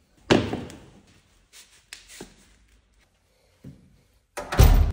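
A few knocks and thumps of something being handled, with a loud one just after the start, softer ones in the middle and the loudest near the end.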